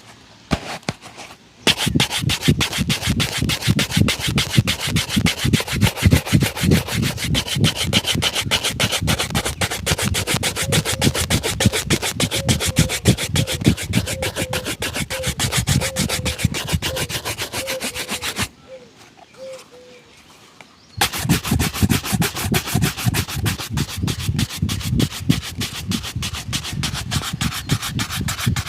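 A shoe being buffed with rapid back-and-forth rubbing strokes during shoe polishing. The strokes run steadily, stop for a couple of seconds past the middle, then start again.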